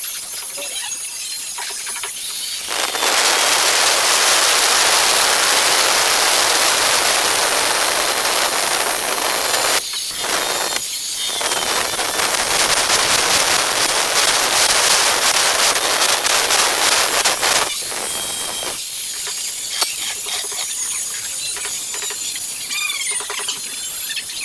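Angle grinder cutting ceramic tile: a loud grinding noise starts about three seconds in, breaks off briefly twice around ten seconds, and stops about six seconds before the end, leaving quieter scattered sounds.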